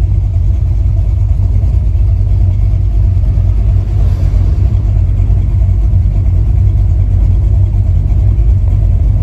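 V8 engine of a Chevy LUV pickup running steadily while the truck is driven, a loud, even low rumble heard from inside the cab.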